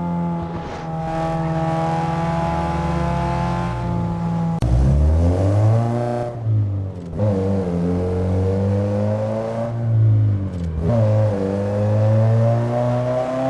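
1998 Renault Mégane 2.0 engine running at a steady note, then from about a third of the way in revving up in rising pitch, dropping back sharply and climbing again two more times.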